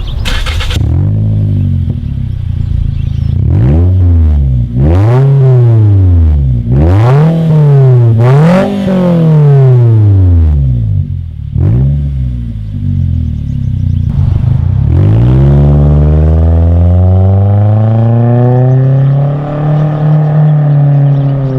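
Toyota C-HR engine revving through a prototype REMARK cat-back exhaust: a short noisy burst at the start, then several quick blips that rise and fall back to idle. After a few seconds of idling it makes one slower, longer rev that is held and drops off near the end.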